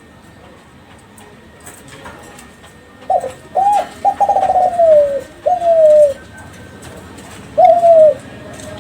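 Kelantan-strain spotted dove (derkuku) cooing: a phrase of short falling notes starting about three seconds in, with a long rolling middle note, then one more coo near the end. This is the call used as a lure to set other doves calling.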